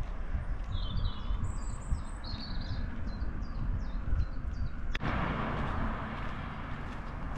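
Small birds singing, a string of short quick chirping phrases, over a low outdoor rumble. About five seconds in the sound changes abruptly to a steady rushing noise.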